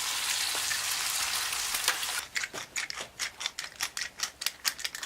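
Bacon frying in a pan over a campfire: a steady sizzle that, about two seconds in, turns to irregular crackling pops.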